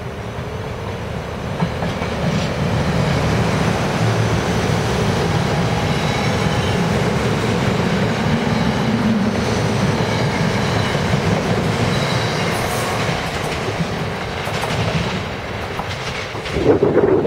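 SEPTA Silverliner IV electric multiple-unit train passing close by, a steady rumble of steel wheels clattering over the rails that builds about a second and a half in. A brief loud thump comes near the end.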